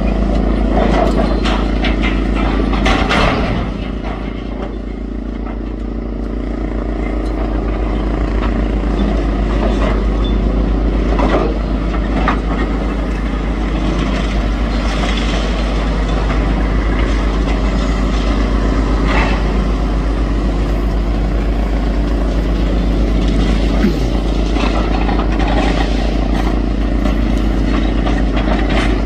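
Demolition excavator's engine running steadily under load, with scattered cracks and knocks of masonry breaking as the wall is pulled down.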